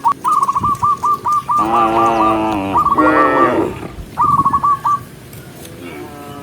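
Cows mooing: two long moos, one straight after the other, near the middle. Before and after them comes a quick run of short, high chirping calls.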